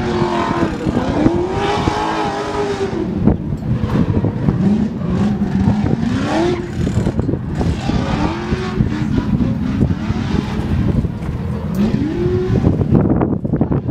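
Drift car engine revving up and falling back again and again, over a steady rush of noise.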